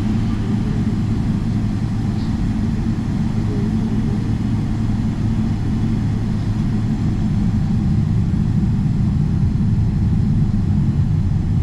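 Steady low rumble of a Boeing 777-300ER's GE90 jet engines and airframe heard from inside the cabin, growing slightly louder in the second half.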